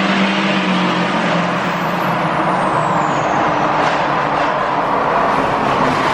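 Pickup truck on the move, with steady engine and road noise.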